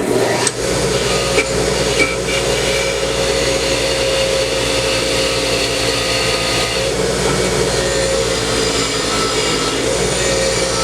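Powered wire wheel starting up suddenly and running steadily against steel with a constant whine and hiss, scrubbing rust and paint off bicycle parts down to bare metal so they can be welded.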